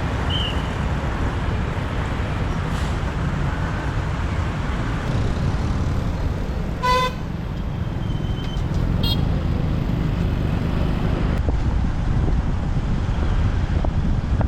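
Steady wind and road rumble of a motorbike riding in city traffic, with a short horn beep about halfway through and a briefer high chirp a couple of seconds later.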